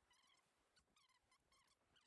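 Very faint, short high calls of a bird, several in quick succession, over near silence.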